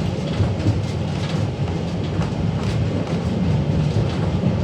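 Vintage electric tram running along street track, heard from on board: a steady low rumble with occasional clicks from the wheels on the rails.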